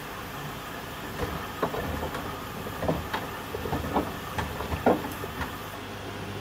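Washing machine running mid-cycle: a steady hum, with a run of irregular knocks and clunks from about a second in to about five and a half seconds in.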